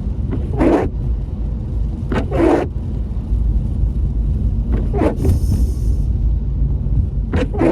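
Steady low rumble of a car's cabin with the engine running, while the windscreen wipers swish across rain-wet glass about every two seconds. A brief thin high squeak comes around the middle.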